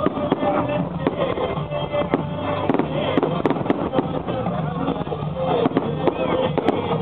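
Fireworks going off in a rapid scatter of sharp bangs and crackles, over music playing.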